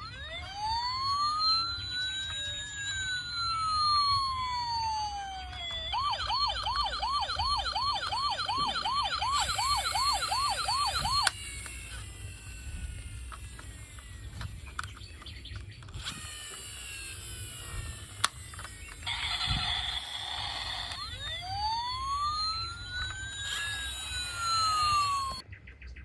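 Electronic siren of a toy emergency vehicle: a slow rising-and-falling wail, then a fast warble at about three sweeps a second, and later another slow wail.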